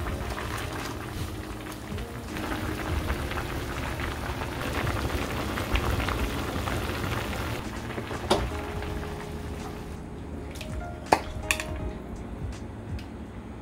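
Food frying and sizzling in a pan. The sizzle thins out about ten seconds in, and a few sharp clicks follow.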